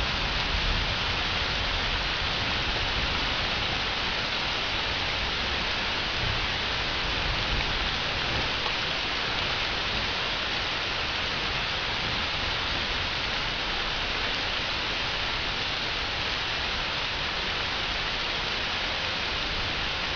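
Steady heavy rain falling in a thunderstorm, an even hiss of rain that doesn't let up.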